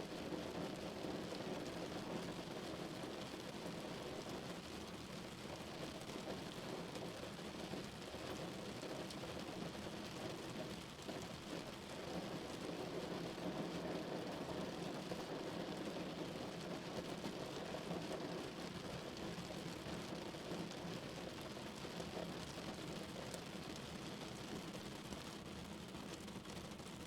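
Steady rain drumming on a car's roof and windows, heard from inside the vehicle.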